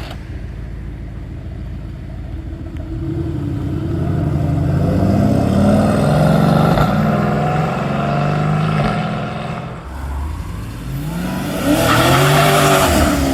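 A car engine accelerating hard past, its pitch climbing and stepping back down as it shifts up through the gears. Near the end there is a short rev that rises and falls.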